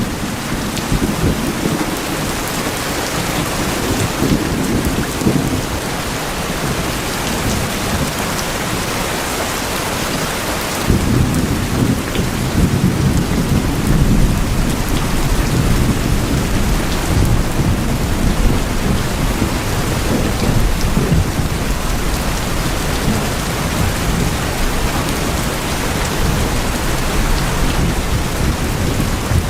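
Steady heavy rain drumming on tin roofs, with a low rumble of thunder setting in about a third of the way through and carrying on.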